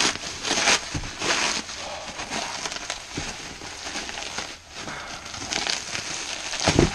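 Plastic wrap and bubble wrap crinkling and rustling in irregular bursts as it is pulled off by hand, with a dull thump near the end.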